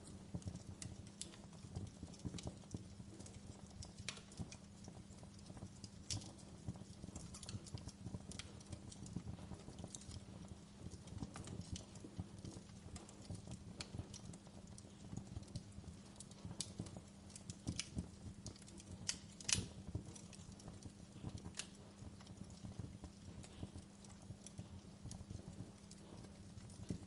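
Wood fire crackling in a fireplace: irregular sharp pops and snaps over a low steady rumble, with one louder pop about two-thirds of the way through.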